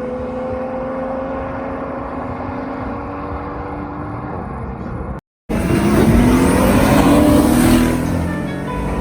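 Sports car engine running with a steady, slowly falling note. After a brief cut, a car accelerates hard and its engine note climbs; this is the loudest part.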